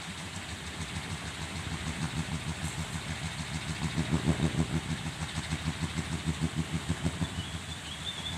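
Wooden kiling windmill spinning in strong wind, its blades giving a low rhythmic hum at about four pulses a second that swells and fades with the gusts. A brief high whistle comes near the end.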